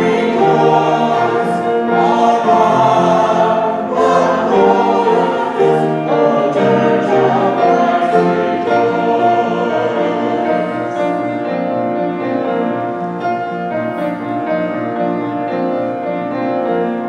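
Worship song with a group of voices singing to piano accompaniment. About two-thirds of the way through, the moving notes settle into a long held chord as the song draws to its close.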